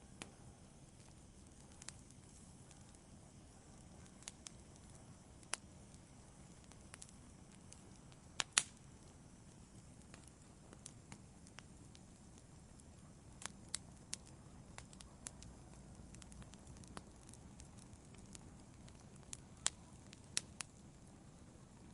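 Wood fire in a fireplace burning quietly, with a soft steady hiss and scattered sharp crackles and pops, a double pop about eight seconds in and a cluster near the end.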